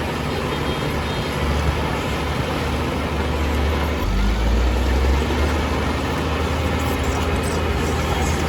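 Heavy diesel engine of earthmoving equipment running steadily, with a deeper, louder rumble for about a second starting around four seconds in.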